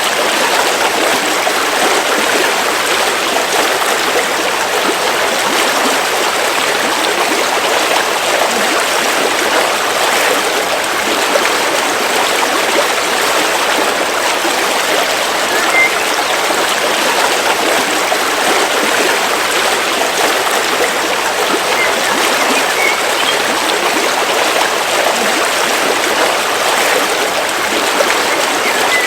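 River water flowing over stones, a steady rushing and babbling with no pauses.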